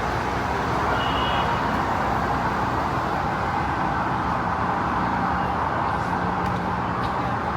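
Steady city street traffic noise: a continuous hum of vehicle engines and tyres with no sharp events.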